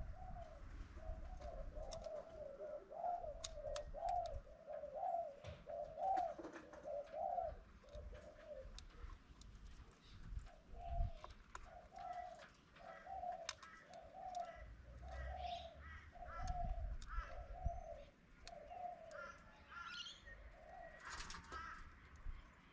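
A dove cooing in a long run of short, evenly repeated notes, about one and a half a second, with a pause partway through. Higher chirps from small birds come in during the second half, with a brief burst of them near the end.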